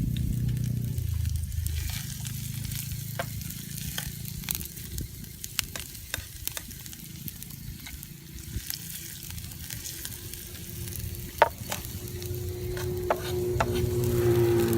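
Food sizzling in a campfire frying pan over a wood fire, with many scattered pops and crackles and one sharp pop about three quarters of the way through. A low steady hum comes in near the end.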